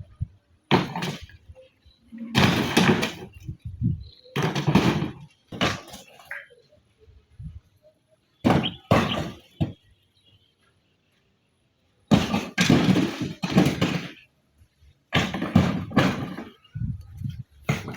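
Bursts of knocking and clattering of hard objects, with short gaps between them, mixed with voices; the sound drops out entirely for about two seconds past the middle.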